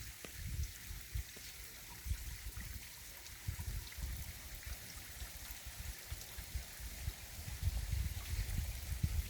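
Mountain stream water running steadily over rocks, with a low uneven rumble underneath that swells and fades, stronger near the end.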